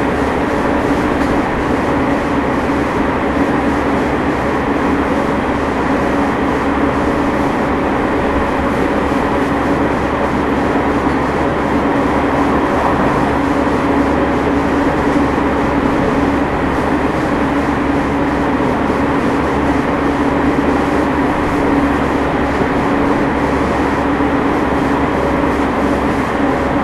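JR East 209 series 500-subseries electric train running at a steady speed, heard from inside the car. Continuous rolling noise with a steady low hum, and the air conditioning running.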